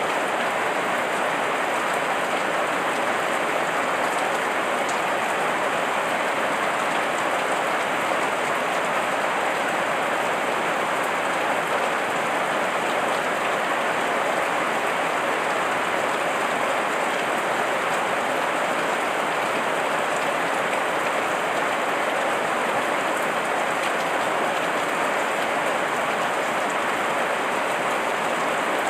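Heavy rain falling steadily, an even hiss of drops on surfaces with no letup.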